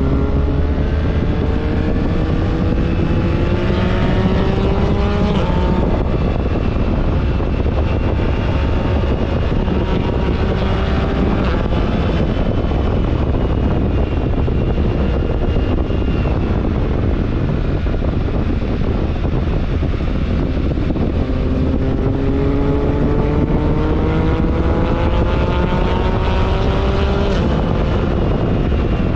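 BMW R1300GS Adventure's boxer twin engine pulling hard, its pitch rising and then dropping suddenly at a gear change, twice: about five seconds in and again near the end. A steady rush of wind runs underneath.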